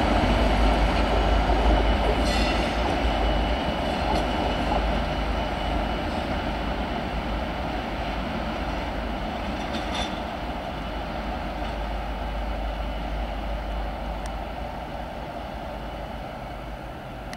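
A train hauled by Class 57 diesel locomotives pulls away, its engine rumble and wheel noise fading steadily into the distance, with a couple of sharp metallic clicks from the wheels on the rails.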